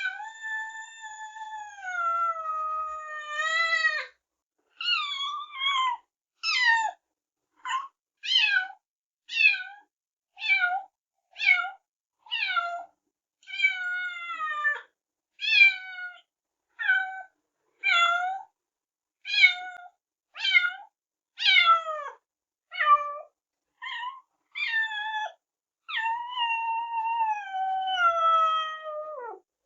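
Kittens meowing: a run of short, high mews about one a second, most falling in pitch, with a long drawn-out meow at the start and another near the end.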